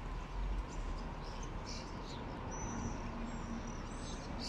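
Small birds chirping faintly, short high notes scattered through, over a steady low outdoor rumble.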